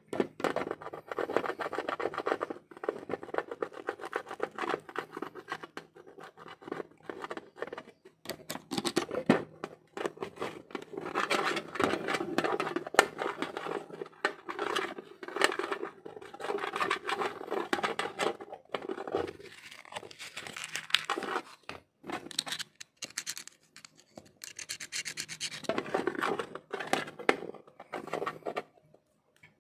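Hands and tools scratching, rubbing and clicking on the plastic case and parts of an ASUS A456U laptop being taken apart. The sound is a busy run of small scrapes and clicks with a few short pauses.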